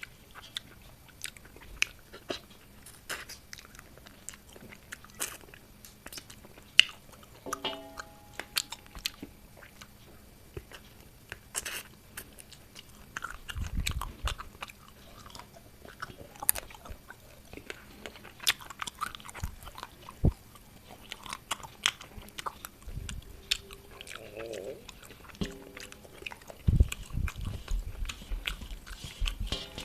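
A person eating close to the microphone: chewing and crunching with many sharp mouth clicks and smacks throughout, and a few dull low thuds.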